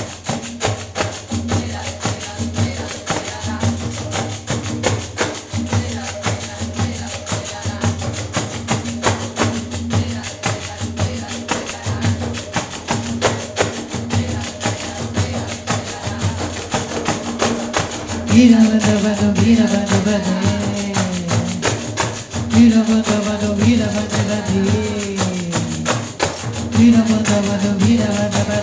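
An ensemble of pandeiros playing a fast, steady rhythm of jingle and drumhead strokes over a held low tone. About two-thirds of the way in, a gliding melody joins in three phrases, louder than the drums.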